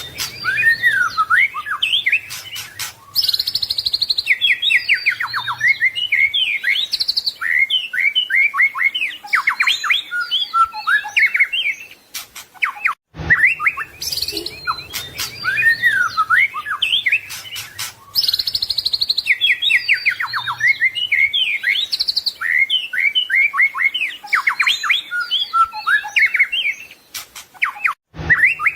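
White-rumped shama (murai batu) singing a rich, varied song of quick whistles, slurred notes and rapid rattling trills, packed with mimicked phrases. It is a looped recording: the same passage starts over after a brief drop-out about 13 seconds in.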